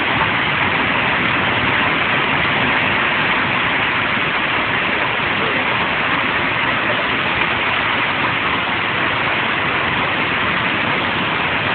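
Steady, unbroken roar of storm wind and heavy rain from a tornado passing close by.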